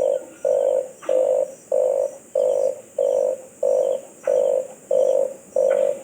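Red collared dove cooing: a steady run of about ten short, low, rough coos repeated evenly at roughly one and a half per second.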